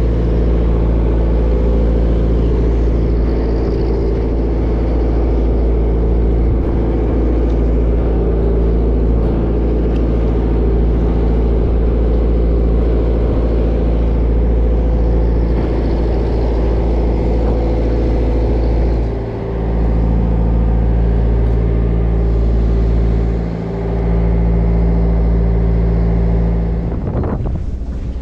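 Bottom trawler's diesel engine running steadily at a constant pitch, with two brief dips in level in the latter half.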